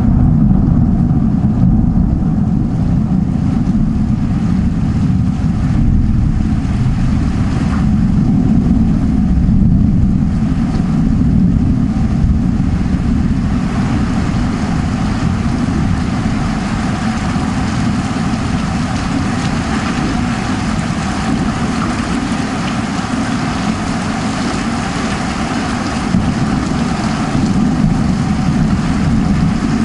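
Heavy rain falling: a loud, steady, dense noise weighted to the low end, its hiss growing a little stronger about halfway through.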